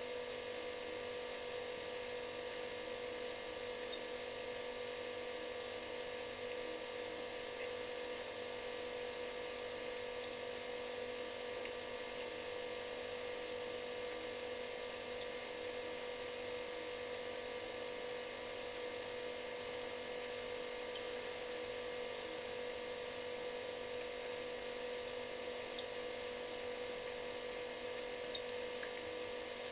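Refrigerator running: a steady, unchanging buzz made of several held tones, one much stronger than the rest, over an even hiss, with a few faint ticks.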